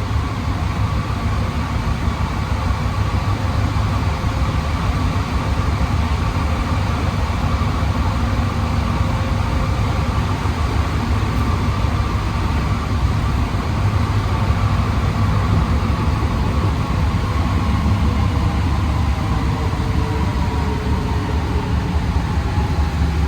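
Alstom NS-16 metro train running, heard from inside the car: a steady low rumble and running noise with a motor whine that slowly drops in pitch over the last several seconds as the train slows for the next station.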